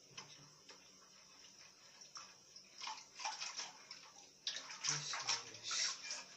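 Water splashing and running in irregular bursts, once about three seconds in and again for about a second and a half near the end.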